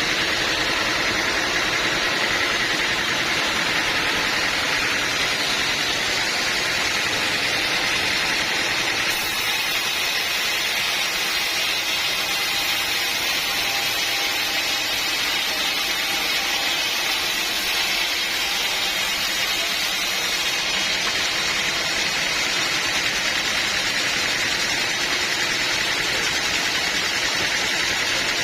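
Sawmill running steadily, a constant mechanical noise with no break.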